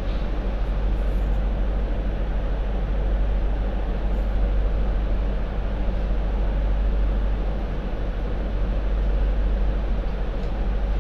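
Hong Kong MTR Light Rail Phase IV train (cars 1128+1125) running, a steady low rumble of wheels on track and running gear.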